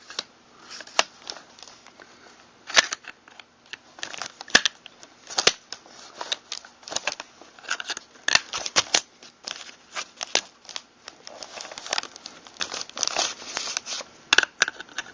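Parts of a Mossberg pump-action shotgun being handled and fitted together during reassembly: irregular sharp metal clicks and taps with short scrapes, coming several a second in places.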